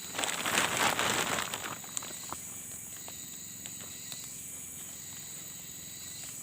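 Rustling and crackling of tent material and undergrowth being handled while a tent is pitched, loud for the first second and a half. It settles into a steady, faint, high-pitched hiss of forest background.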